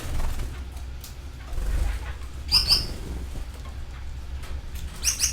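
Canaries chirping, with a pair of short, loud high chirps about two and a half seconds in and another pair near the end, over a steady low rumble.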